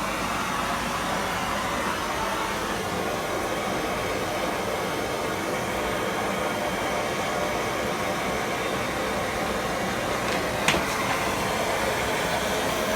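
Blowtorch flame hissing steadily while copper pipe is soldered, with one sharp click about ten and a half seconds in.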